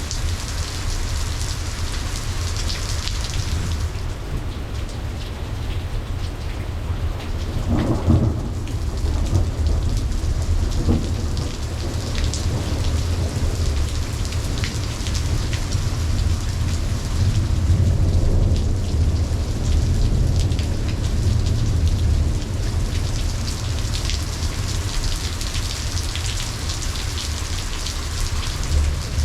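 Steady rain falling with rolling thunder underneath. A sharper thunderclap about eight seconds in, and a rumble swelling again just past the middle.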